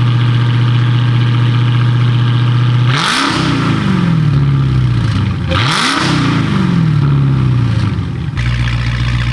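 Dodge Challenger's engine with a new, louder aftermarket exhaust, idling steadily, then revved twice about three seconds in and again near the middle, each rev rising and then falling back to idle.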